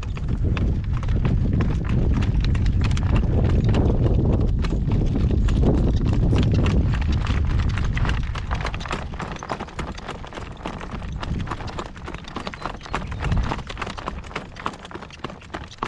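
A driving horse's hooves clip-clopping on the road at a working trot, in a regular beat. Heavy wind buffets the microphone for the first half and eases about eight seconds in.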